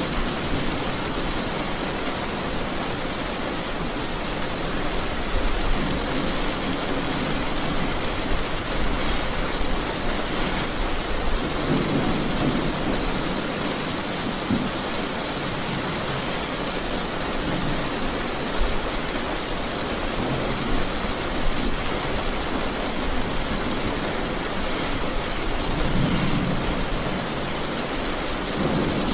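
Steady heavy rain falling, with low rolls of thunder swelling up and fading several times, about every six seconds or so.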